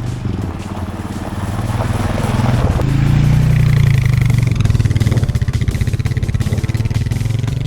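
A farm tractor's diesel engine running, rising in pitch and loudness about three seconds in, then holding steady under load.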